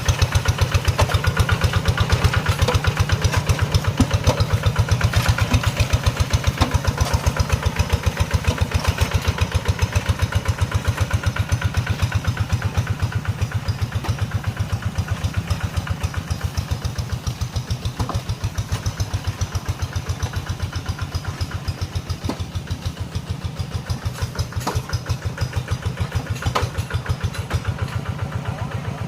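Small tractor engine running steadily with a fast, even pulse of firing strokes, getting a little quieter toward the end.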